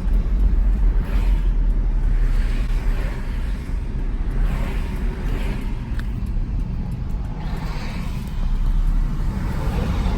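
Road and engine rumble inside the cab of a 2010 Ford Ranger pickup on the move, with a hiss that swells and fades a few times.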